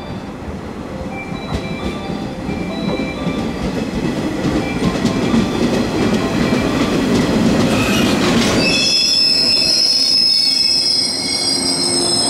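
JR 115 series electric train pulling into a station: the rumble of its wheels on the rails grows louder as the cars pass, with some clicks over the rail joints. About two-thirds of the way in, a steady high squeal from the wheels and brakes takes over as the train slows to a stop.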